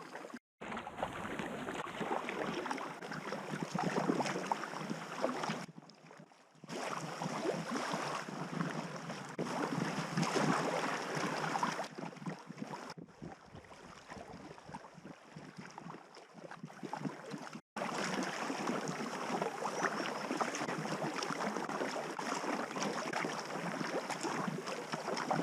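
Steady rushing and splashing of river water around a packraft, with wind on the microphone, broken by a few brief silent gaps.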